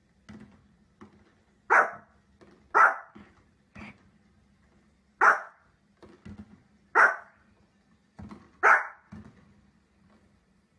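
Small white spitz-type dog barking: about six sharp, short barks at irregular intervals, with fainter yaps between them.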